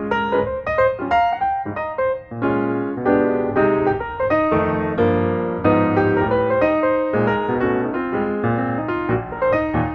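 Piano music: a steady run of struck piano notes and chords.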